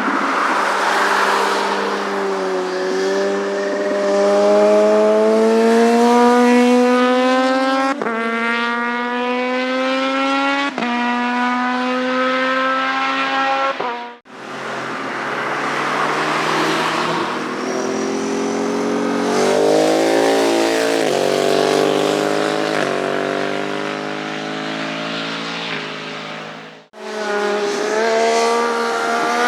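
Motorcycle engines accelerating hard on a racetrack, the pitch climbing and dropping back at each upshift, around 8 and 11 seconds in. The sound cuts off abruptly twice, and each time another bike comes in at full throttle.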